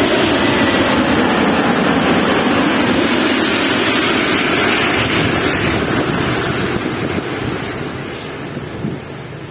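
Jet airliner on landing approach passing low overhead: a loud, steady rushing engine noise that fades away over the last few seconds.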